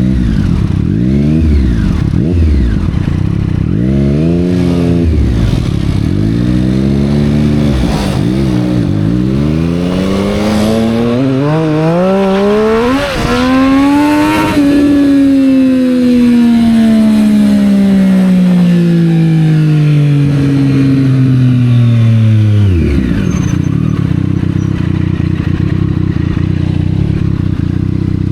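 Triumph Street Triple 765 R's three-cylinder engine through a Yoshimura exhaust: several quick throttle blips, then a pull rising in pitch for several seconds and a long, slow wind-down that settles into a steady low note.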